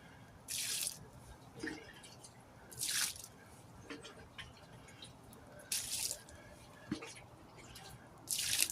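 Water being scooped out of a truck tire with a small plastic gum container and tipped out: four short splashes a few seconds apart, with drips and light clicks between.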